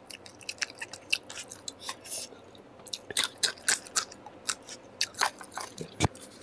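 Close-miked chewing and biting of food: irregular wet mouth clicks and crunches, several a second, with one sharper snap near the end.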